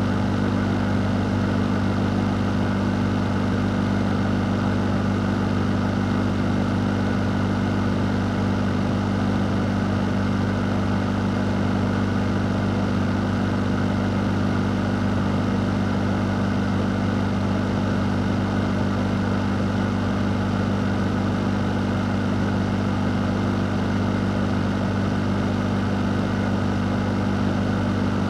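A fan running steadily: a constant low motor hum under an even rush of air, with no change in speed.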